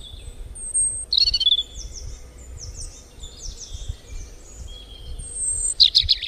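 Wild birds calling: many short, high chirps sweeping downward in pitch, loudest about a second in and again near the end, over a low rumble.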